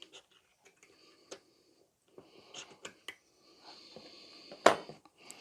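Light clicks and taps of tweezers and matchsticks being handled on a wooden fence jig between panel pins, with one sharp click near the end.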